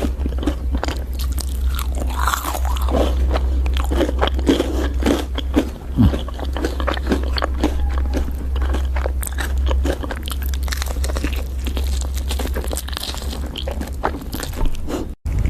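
Close-miked eating sounds: someone biting and chewing crunchy food, with dense irregular crackles and crunches, over a steady low hum. The sound drops out for a moment near the end.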